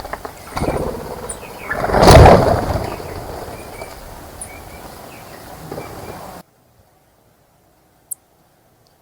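Outdoor background noise with a few faint bird chirps, and a loud rushing swell about two seconds in. The sound cuts off suddenly partway through, leaving near silence broken by a single click.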